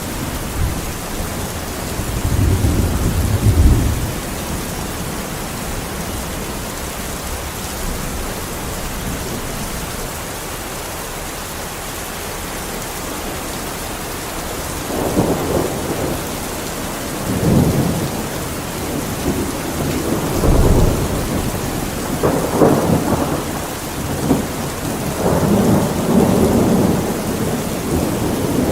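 Steady rain falling, with rolls of thunder. One low rumble comes a few seconds in, then repeated rumbles build through the second half.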